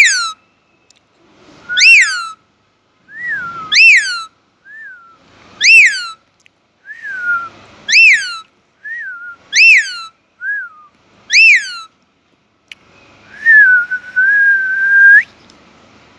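Indian ringneck parrot whistling: seven loud rising-and-falling whistles about two seconds apart, with short, softer chirps between them. Near the end comes one long, steady whistle of about two seconds.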